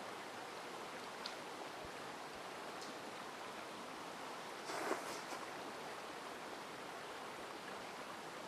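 Mountain stream flowing steadily, a continuous even rush of water. A short rustle stands out about five seconds in.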